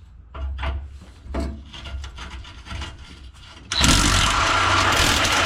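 A few clicks and scrapes of tools on rusted exhaust hardware, then about four seconds in a handheld power tool starts and runs steadily against it.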